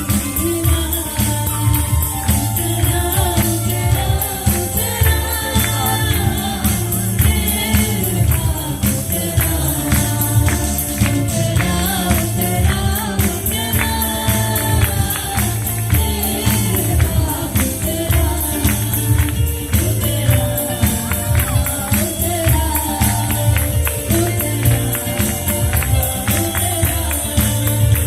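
Choir singing a gospel worship song over a band with a steady beat and shaken tambourine.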